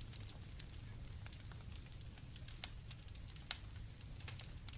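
Campfire crackling softly with scattered sharp pops, over a low rumble of burning wood. Faint steady cricket trilling sits high above it.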